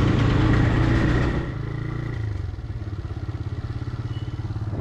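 TVS Raider 125's single-cylinder engine running at speed, then the revs drop about a second and a half in and settle into a quieter, even low-speed putter as the bike slows.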